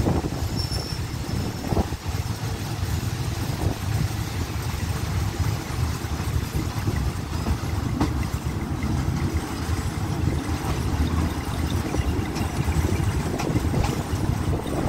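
Steady rumble of a passenger train running along the track, heard from an open carriage window.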